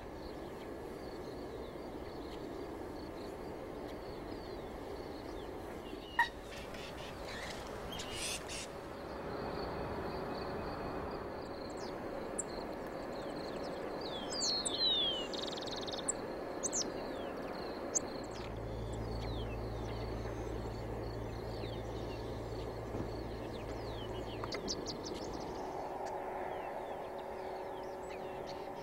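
Wetland birds calling over a steady background hiss, with short high chirps and quick sweeping whistles in the middle. A sharp click comes about six seconds in, and a low hum runs for several seconds in the second half.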